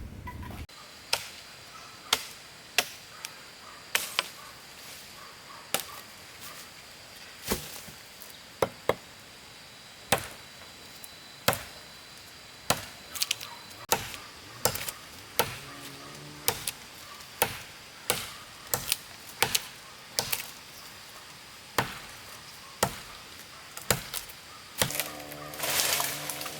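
Bricklaying: a mason's steel trowel knocking and tapping on bricks and mortar in sharp, irregular knocks, about one or two a second. A short honking call comes in twice, once around the middle and once near the end.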